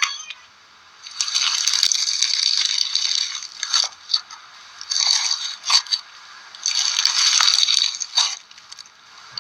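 Slime being squeezed and worked by hand, giving a dense crackling, crunching sound in three long stretches with short pauses between.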